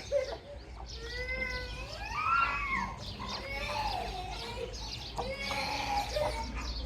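Several young animals calling over one another: drawn-out cries that waver up and down in pitch, with short high chirps behind them.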